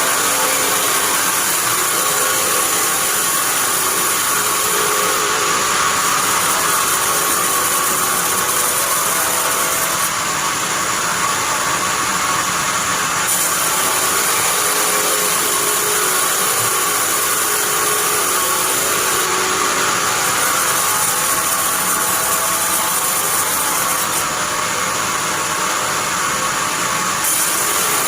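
Sawmill bandsaw running steadily while sawing pine, a constant even hiss with no break.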